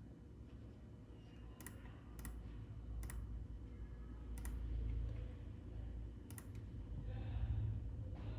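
Five separate sharp clicks of a computer mouse button at an uneven pace, over a low steady rumble.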